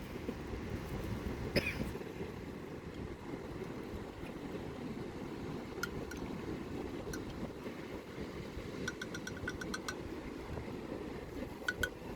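Steady low rush of wind and surf at the seashore, with scattered light clinks of kitchen utensils and a quick run of about eight taps in a second near the end, as a salad is mixed.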